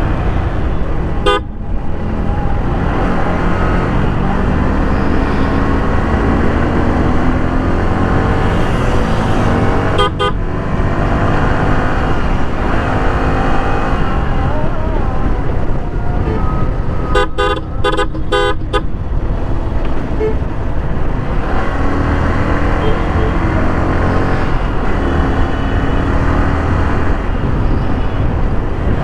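Motorcycle riding in road traffic, with steady engine and road noise. A vehicle horn honks once about a second in and again around ten seconds, then sounds a quick run of short beeps a little past the middle.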